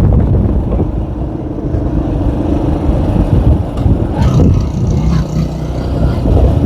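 K Moto ATX motorcycle's engine running steadily while riding, with rough low rumble from wind and road on the microphone.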